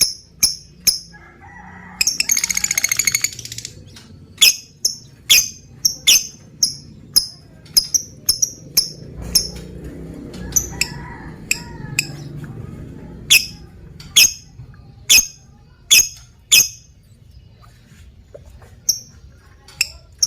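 Lovebird calling: a series of short, sharp, high-pitched chirps, one or two a second, broken about two seconds in by a rapid rattling chatter that lasts about a second and a half.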